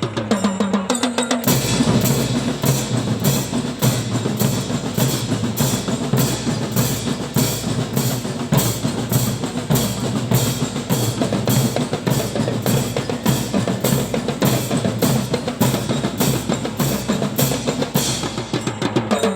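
Drums played in a fast, continuous rhythm, with deep bass-drum beats under snare strokes.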